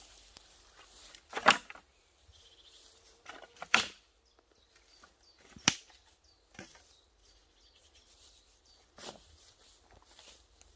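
Five separate sharp clicks over a faint outdoor background, the loudest about a second and a half in.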